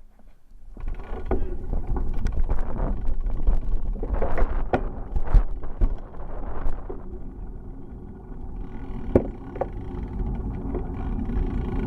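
Bicycle riding noise: a low rumble of wind and rolling with irregular knocks and rattles, the loudest around four to five seconds in and one sharp knock a little after nine seconds.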